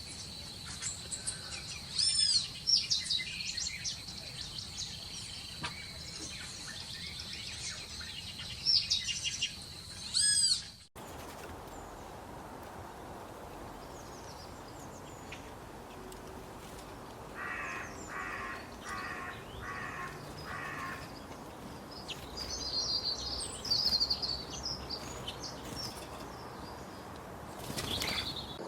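Small birds chirping and calling in two joined recordings. In the first, short high chirps sound over a steady high whine. After a sudden cut about eleven seconds in, a run of five harsh calls is followed by more high chirping.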